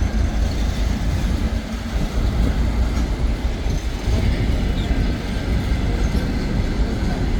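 Passenger train running, a loud steady rumble and rattle of the rolling stock on the rails.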